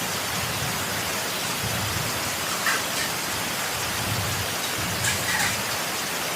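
Heavy rain falling steadily, a dense even hiss, with a few louder drips or splashes standing out about two-thirds of a second apart near the middle and toward the end.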